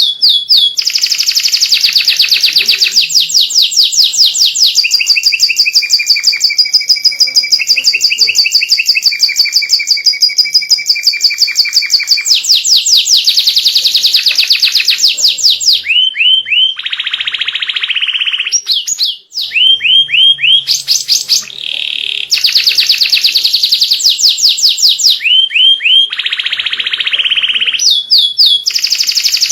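White domestic canary singing without pause: long rolling trills of rapidly repeated high notes, changing to a new phrase every few seconds, with one brief break about nineteen seconds in.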